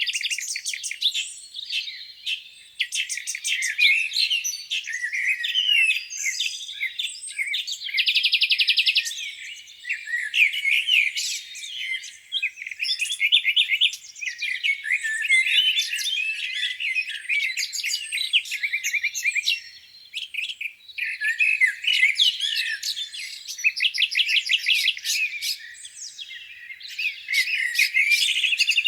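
Several songbirds singing at once in a dawn chorus, overlapping chirps, rapid trills and warbles with no pauses. All of it sits high in pitch, with no low sound underneath.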